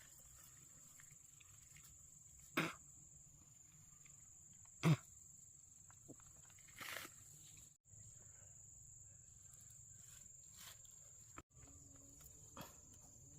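Faint outdoor background: a steady high-pitched whine with a few sharp snaps or knocks, the loudest about two and a half and five seconds in.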